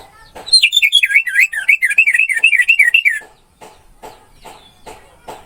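Orange-headed thrush singing one loud phrase of quick, repeated rising-and-falling whistled notes. The phrase starts about half a second in and lasts nearly three seconds, then stops.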